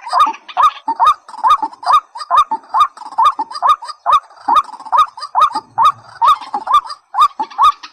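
Rail calls from a waterhen and watercock lure recording: one short, hooked call repeated evenly about two and a half times a second, with sharp clicks between the calls.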